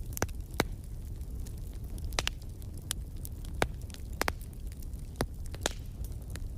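Wood fire crackling in a fireplace: irregular sharp pops and snaps, about a dozen louder ones, over a steady low rumble of the burning.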